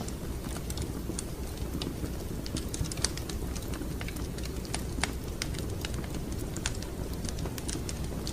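Wood fire crackling in a fireplace: irregular sharp pops and snaps, several a second with a few louder ones, over a steady low noise of the burning fire.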